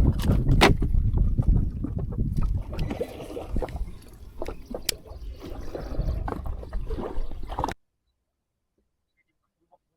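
Water sloshing around a boat with scattered knocks, cutting off suddenly to silence near the end.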